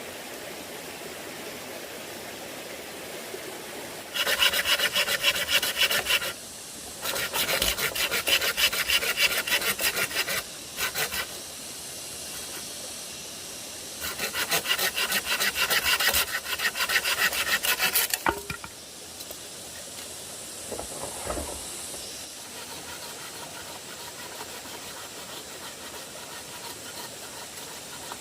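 Wood being worked by hand with a toothed tool, rapid rasping strokes in four bouts, the longest about four seconds, with pauses between, over a steady background hiss.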